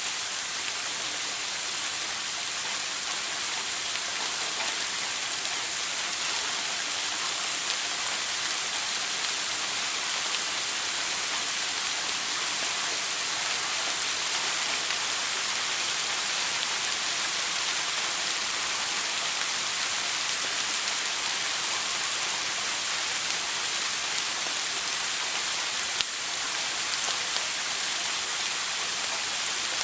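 Shower water spraying steadily: an even, hissing patter, brightest in the high range. Near the end there is a single brief click.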